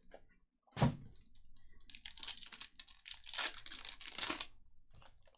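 A trading-card pack's foil wrapper torn open and crinkled by hand, after a single sharp knock about a second in.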